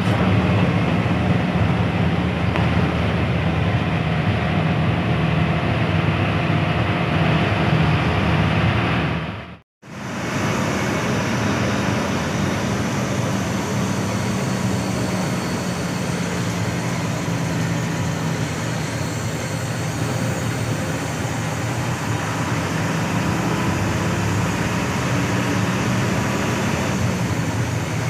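Hino AK8 front-engined bus's diesel engine running steadily while the bus drives, with road noise, heard from inside the cabin. The sound drops out briefly about ten seconds in, then resumes.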